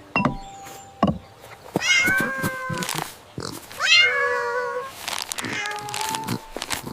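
A cat meowing: two drawn-out meows about two seconds apart, each falling in pitch, then a fainter call near the end. Short clicks and knocks sound in between.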